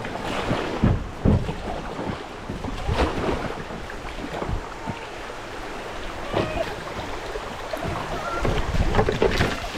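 Kayak running a shallow creek rapid: rushing water with repeated splashes and knocks from the paddle and hull, and wind buffeting the microphone.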